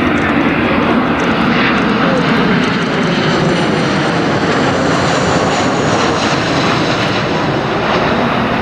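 Boeing 737-800 airliner flying by low, the loud, steady rush of its CFM56 turbofan jet engines.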